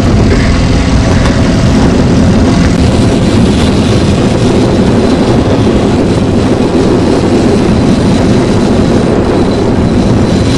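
Boat motor running steadily under way, a loud low hum mixed with a constant rush of noise.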